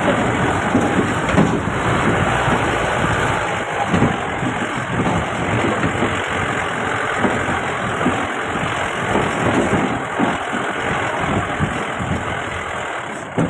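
Mahindra Bolero SUV running as it drives over a rough off-road hill track, with frequent irregular knocks and rattles and a sharper knock near the end.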